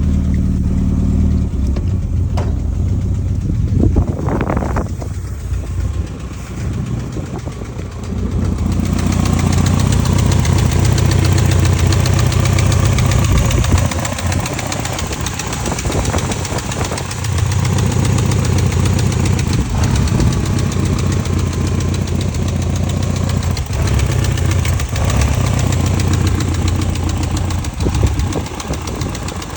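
BMW E30 M3's S14 four-cylinder engine running with a ticking noise, at about 170,000 miles. It gets louder and brighter about nine seconds in.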